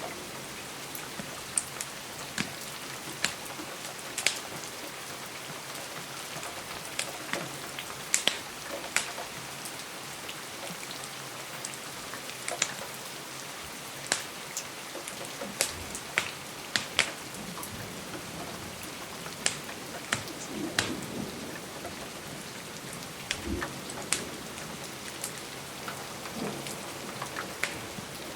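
Steady rain with scattered, irregular sharp crackles and pops from a wood fire burning in a fireplace.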